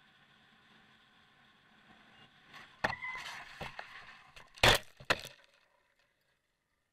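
Car collision: under a faint hum, a sharp bang about three seconds in, followed by a short squeal and scraping knocks, then a louder bang nearly five seconds in and a last one just after, before the sound drops away.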